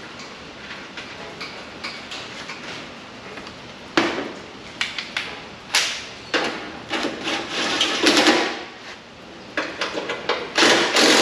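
Irregular knocks and clanks of truck body parts being handled and fitted, with a sharp knock about four seconds in and longer scraping, sliding sounds near the end.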